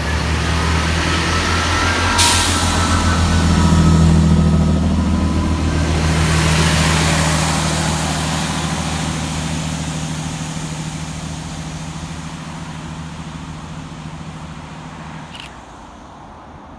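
Class 165 diesel multiple unit's engines running under power as it pulls away, with a short sharp hiss of air about two seconds in; the engine note builds, then fades steadily as the train draws off.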